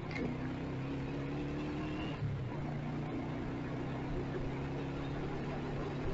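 Motorcycle engine running under way in traffic, a steady drone that changes pitch about two seconds in as the throttle or gear changes.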